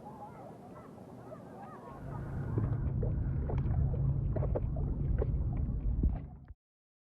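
Geese honking repeatedly, then from about two seconds in a loud low rumble with scattered knocks and clicks that covers them and cuts off suddenly near the end.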